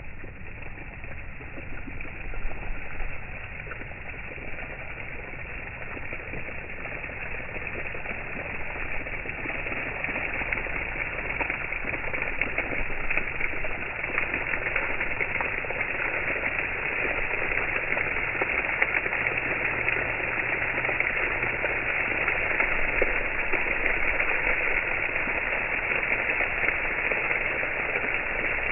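Water fountain splashing: a steady hiss of falling and spraying water that grows louder over the first half and then holds level.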